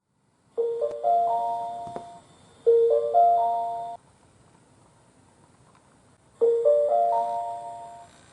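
Electronic chime playing a short rising run of bell-like notes, twice in a row; after a pause the same pair of phrases sounds again near the end.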